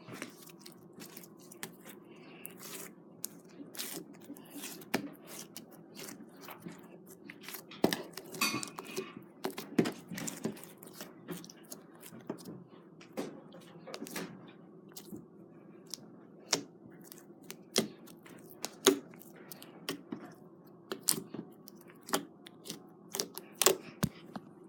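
Slime being squished and poked by hand, giving an irregular series of sharp clicks and pops over a low hum, busiest about a third of the way in.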